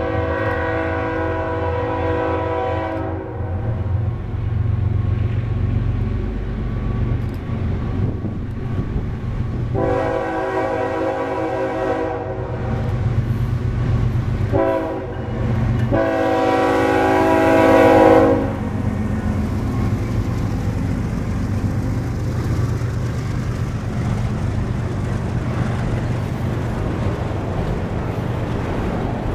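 BNSF freight train's diesel locomotive sounding its horn in the grade-crossing pattern: long, long, short, long, with the last blast the loudest as the engine draws near. Under the horn the engines rumble, and loaded tank cars then roll past with a steady rumble of wheels on rail.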